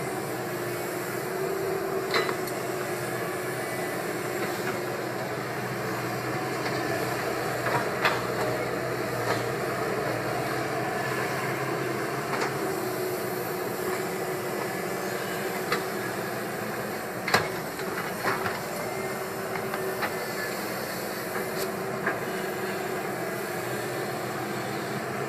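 Caterpillar 320 hydraulic excavator running steadily, with sharp metallic knocks every few seconds, the loudest about two-thirds of the way through.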